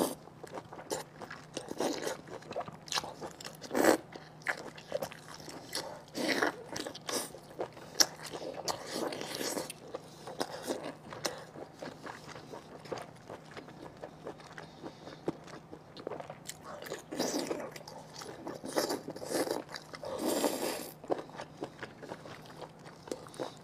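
Close-miked eating: biting and crunchy chewing of spicy braised pig ear and pork gut, in irregular bursts with sharp clicks.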